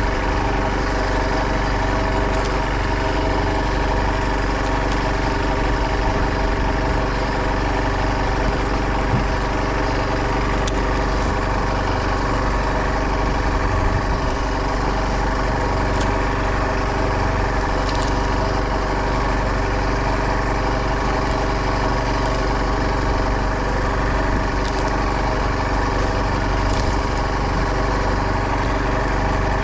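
Fishing boat's engine running steadily at an even speed, with no change in pitch.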